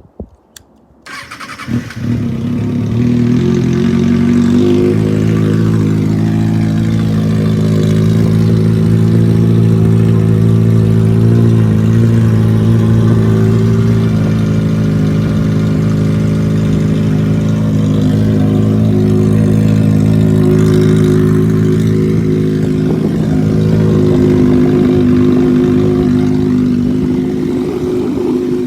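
Kawasaki ZX-6R inline-four sport bike cold-starting: a couple of clicks and a brief crank, then it catches about two seconds in and settles into a steady idle. It is pretty loud, running without its Two Brothers exhaust fitted.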